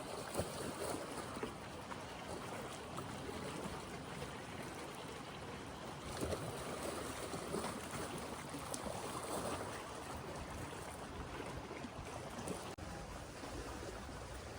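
Small lake waves lapping and washing on the shore in a steady wash, with soft swells every few seconds.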